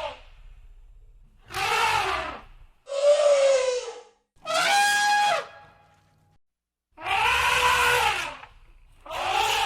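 Elephants trumpeting: a string of about five separate blasts, each about a second long, rising and falling in pitch, with short gaps between them.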